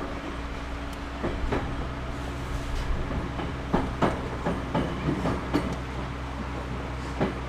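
Inside a Series 211-5000 electric train car: the steady low hum of the train, with a string of irregular sharp clacks from about a second in, as the wheels run over rail joints and points.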